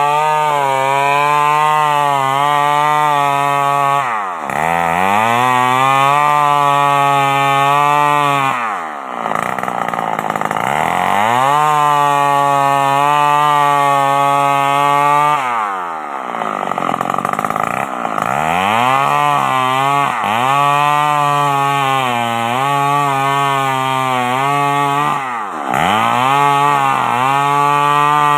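Old two-stroke chainsaw running hard while ripping a coconut trunk lengthwise. Its engine speed drops and climbs back up four times.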